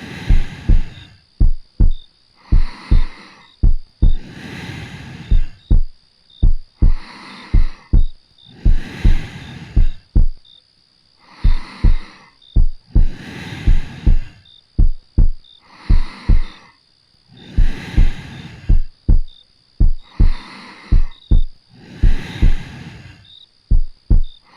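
Steady lub-dub heartbeat in paired low thumps, heard close up as if through the chest, under soft slow breathing that swells and fades about every two seconds.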